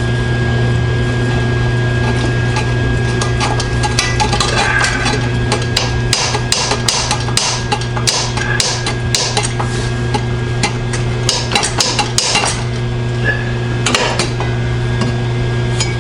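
Metalwork on a steel exhaust downpipe: irregular clusters of sharp metallic clicks and crackles, from about three seconds in until near the end, over a steady low hum.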